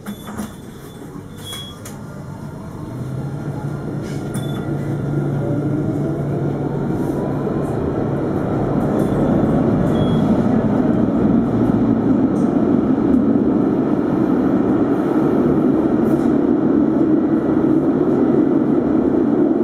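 Alstom Citadis 402 tram heard from on board, pulling away and accelerating. A faint traction-motor whine rises in pitch and the running and wheel-on-rail noise builds over about ten seconds, then holds at a steady cruise.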